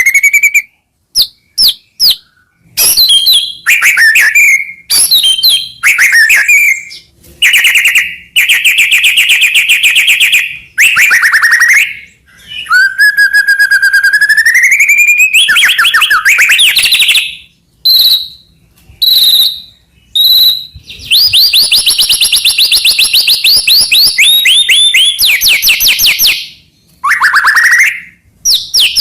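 White-rumped shama (murai batu) in full, loud song: varied whistled phrases, rapid runs of fast repeated notes and trills, and a long rising whistle about halfway through, broken by short pauses. Near the end comes a long stretch of fast, high rattling notes.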